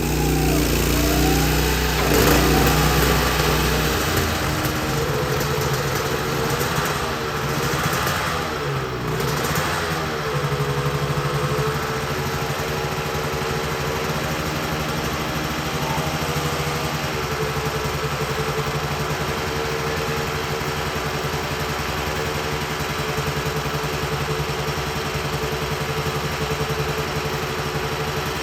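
Two-stroke V-twin engine of a 1993 Rothmans Honda NSR250 race bike running just after starting. The revs rise and fall unevenly for about the first ten seconds, then settle into a steady idle.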